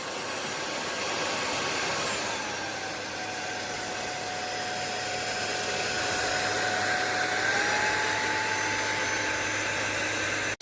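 Sulean X8 cordless stick vacuum running: a steady whirring hiss with a motor whine that drops in pitch a couple of seconds in and rises again later on.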